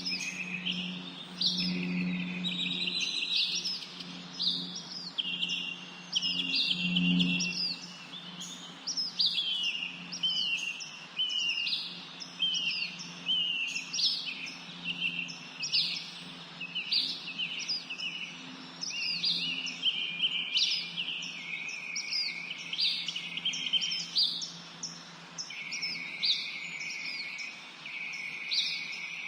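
Several songbirds chirping and singing at once, a steady stream of short, high, overlapping calls and quick pitch sweeps. A faint steady low hum runs underneath.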